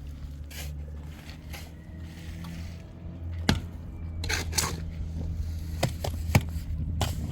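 A steady low hum with a handful of sharp, irregularly spaced knocks and taps starting about halfway through.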